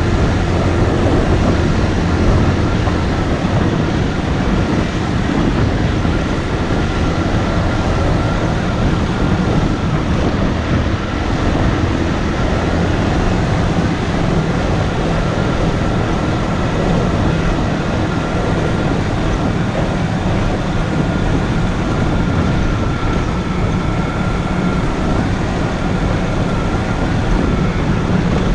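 Motorcycle engine running steadily while riding, with a continuous rush of road noise.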